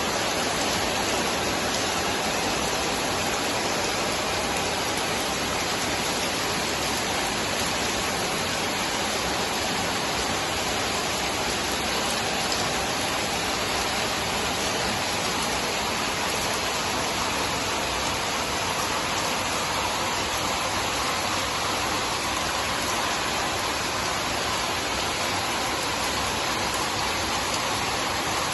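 Steady rain falling, an even hiss that holds level without let-up.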